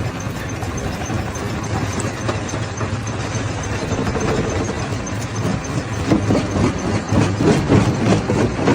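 Primary rock crusher running with a steady low mechanical hum. From about six seconds in, rapid, uneven clattering knocks join it as rock is crushed.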